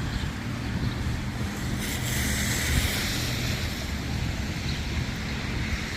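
Wind buffeting the microphone with a steady low rumble, and a rushing hiss that swells about two seconds in and fades again.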